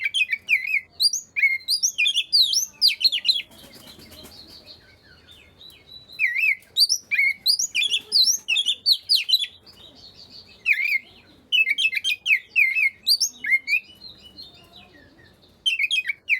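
Oriental magpie-robin (kacer) singing a fast, varied song of quick whistled notes and chirps. It comes in bursts of a few seconds with short pauses between them.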